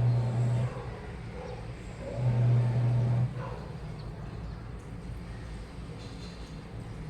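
Washing machine running: the drum motor hums in two loud bursts about a second long, one at the start and one a little after two seconds, with quieter churning between them.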